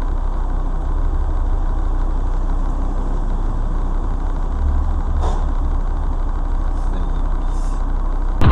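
Steady low rumble of a vehicle engine, heard from a dashcam, with a couple of faint ticks partway through.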